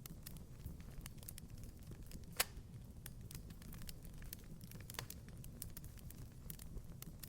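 Wood fire crackling in a fireplace: scattered sharp pops over a low steady rumble, with one louder pop about two and a half seconds in.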